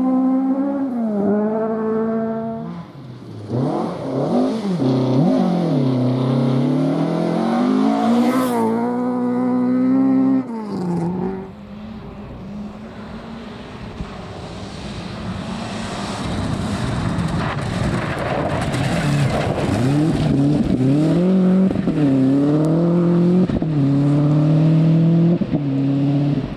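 Rally cars at full effort on a gravel forest stage: an engine revving hard, its note climbing and dropping through gear changes and lifts, then cutting off sharply about ten seconds in. After a quieter stretch of rumbling road noise, another car's engine builds in loudness and climbs through several gear changes near the end.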